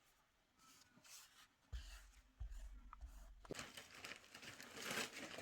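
Faint handling of craft paper: soft rustling and crinkling that starts about halfway through, after a short low rumble.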